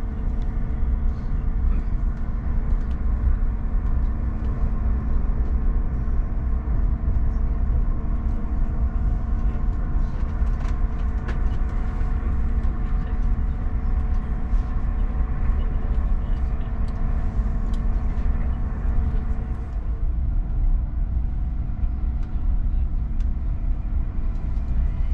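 SJ X2000 high-speed train running at speed: a steady low rumble from the track with constant humming tones over it. One of the tones stops about 20 seconds in, and faint clicks come through now and then.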